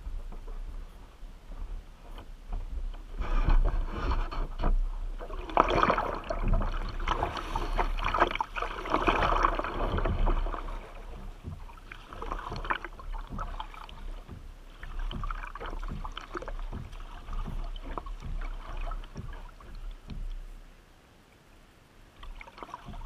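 Water splashing and rushing around a kayak on a river, with irregular splashy knocks over a steady low rumble; loudest from about three to ten seconds in, then easing and briefly dropping away near the end.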